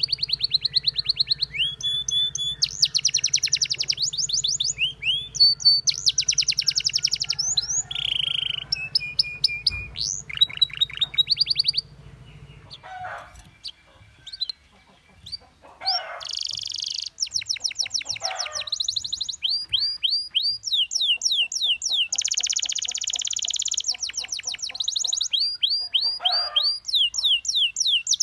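Domestic canary singing: rapid trills of fast repeated high notes and chirps, with a short quieter lull about halfway through before the trilling resumes.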